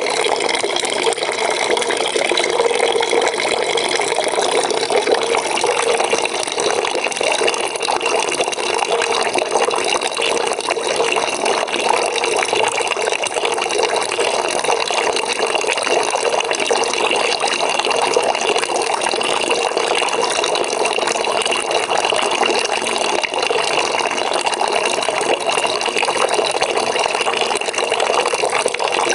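Water running from a tap into a bucket, a steady splashing fill.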